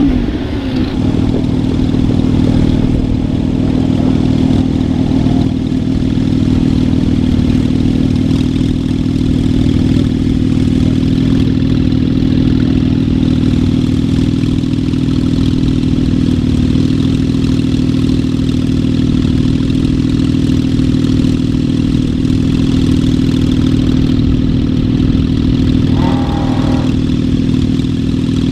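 Porsche 911 Turbo S's twin-turbo flat-six idling steadily, an even drone with no revving.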